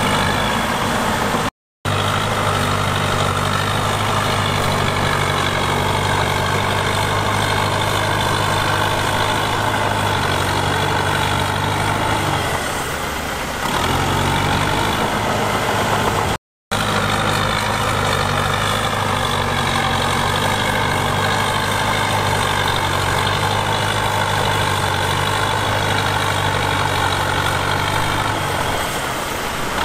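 Heavy diesel engine of earthmoving equipment running steadily, with a wavering higher whine over the low engine hum. The sound drops out briefly twice.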